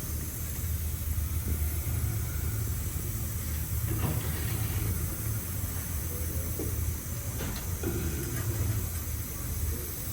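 Steady low hum with hiss, with a few faint knocks and scrapes from hands working copper wire around the exhaust valve, about four and seven seconds in.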